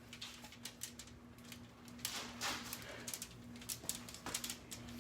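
Scattered small clicks, taps and soft rustles of hands rolling dough around hot dogs on a pan, over a faint steady hum.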